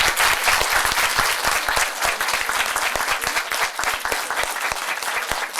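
Audience applauding: a dense, steady patter of many hands clapping, loudest at first and easing slightly.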